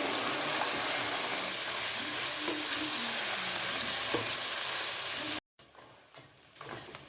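Chicken pieces frying in mustard oil with turmeric and ginger-garlic paste: a steady sizzle with the scrape and knock of a spoon stirring in the pan. About five seconds in it cuts off abruptly, then returns much quieter with a few light knocks.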